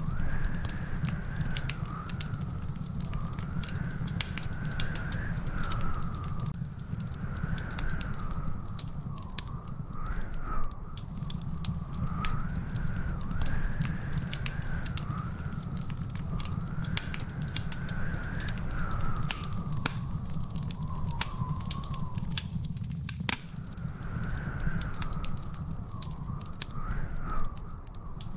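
Wood fire crackling in a fireplace, with many sharp pops over a steady low rumble. A thin whistling tone wavers up and down behind it.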